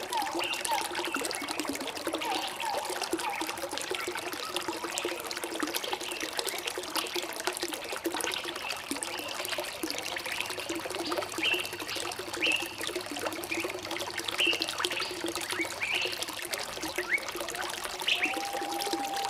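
Running water trickling and pouring steadily, with short bird chirps now and then, more of them in the second half, and a held whistled note near the end.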